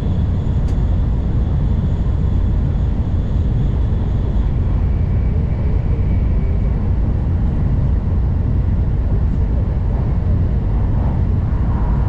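N700 series Shinkansen running on the line, heard from inside the passenger car: a steady low rumble of wheels on rail, with faint thin high whines above it.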